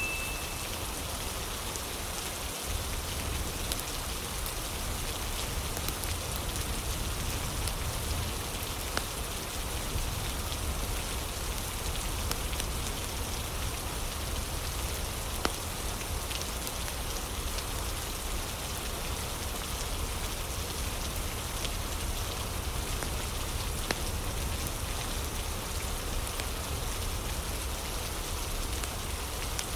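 Steady rain, with a few faint crackles from a fire now and then.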